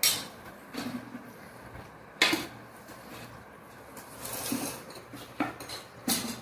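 Plates and cutlery clinking: four sharp clinks, the first right at the start and the others about two, five and six seconds in.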